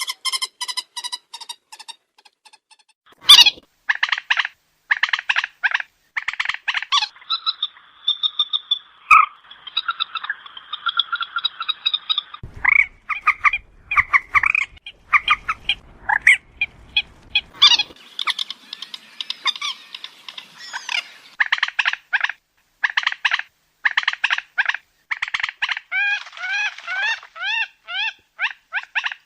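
Moorhen calling: rapid series of short, harsh, clucking notes repeated over and over, with a stretch of continuous chattering early on and a run of quick upward-swooping notes near the end. Looped recorded calls of the kind played as a lure to trap the birds at night.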